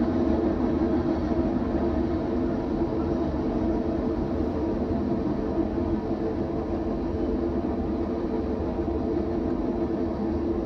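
A train running past on the tracks, making a steady noise with a low hum and no breaks.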